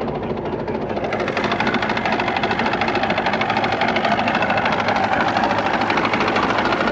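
Boat motor running steadily at slow trolling speed, a fast even pulse that grows a little louder about a second in.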